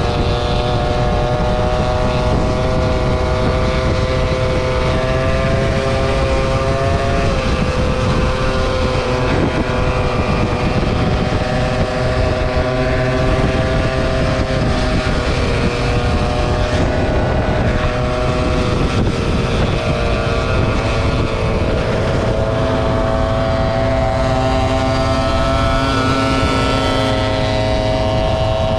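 Scooter engine running steadily at cruising speed during a ride, its pitch drifting slowly up and down with the throttle, with wind rumble on the microphone.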